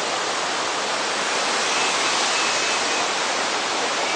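Waterfall pouring down, a steady, even noise of falling water. A few faint short high whistles sound over it near the middle.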